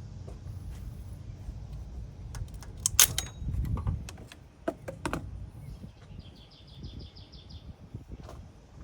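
A few sharp metallic clanks and clicks from tools and parts being handled during engine work, the loudest about three seconds in, over a low rumble. Near the end, a bird gives a quick run of high chirps.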